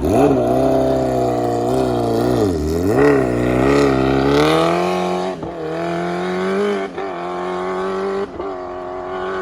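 Honda CBR1000RR's inline-four engine running loud through an Arrow full-system exhaust. The revs dip, then climb and swell to a peak about halfway through and ease back to a steadier note, broken by short, sharp cuts about three times in the second half.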